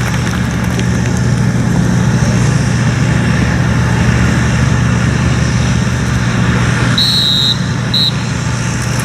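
Steady low engine drone, with two short high-pitched tones about seven and eight seconds in.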